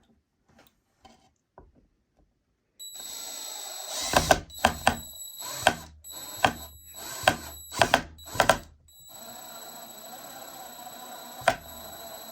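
Drill with a Phillips bit driving a wood screw. The motor starts with a steady whine about three seconds in and is punctuated by a series of sharp clicks. It pauses briefly, then runs again.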